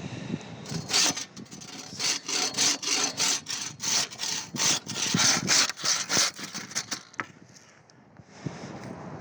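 Hand saw cutting through a dense driftwood log with quick back-and-forth strokes, about three a second. The sawing stops about seven seconds in.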